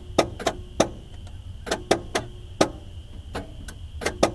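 Car starter solenoid clicking about ten times as the key is worked, in uneven sharp clicks, some in quick pairs, with no cranking. The starter isn't turning the engine, which is likely locked up.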